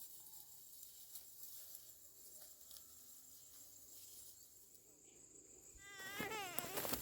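Steady high-pitched drone of insects over a quiet rural background with a few faint clicks. About six seconds in, a small child starts crying, a loud wavering wail.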